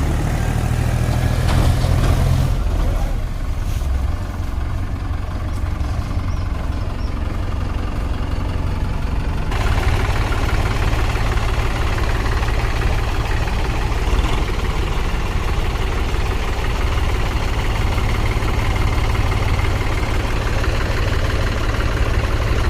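Mahindra tractor's diesel engine idling steadily, its sound changing abruptly about ten seconds in.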